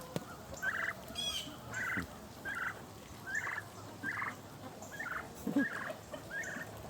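Young turkeys calling: a short, high call repeated about once or twice a second, with one lower bird call about halfway through.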